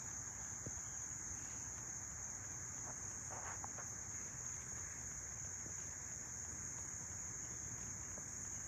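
Garden insects keeping up a steady, high-pitched, unbroken drone, with a faint brief chirp a little past the middle.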